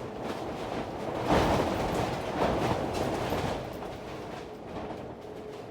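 Storm wind buffeting a shrink-wrapped sailboat, a rumbling rush of noise that swells a little over a second in and eases off after a few seconds.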